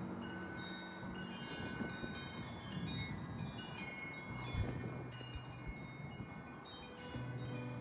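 Chimes tinkling: many quick high ringing notes, scattered and overlapping, over low held tones that change pitch every few seconds.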